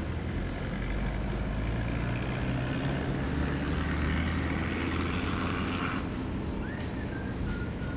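Low, steady vehicle engine rumble with a rushing hiss that builds up and cuts off suddenly about six seconds in, followed by a few faint short chirps.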